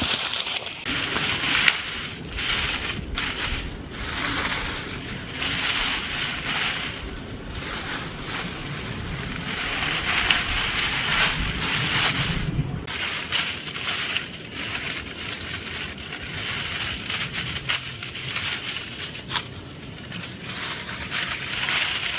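Dry oak leaves and leafy branch tips crunching and rustling as they are handled and woven into a leaf-debris shelter wall: an uneven run of crackles and crunches that keeps swelling and easing, with a low rumble under the first half.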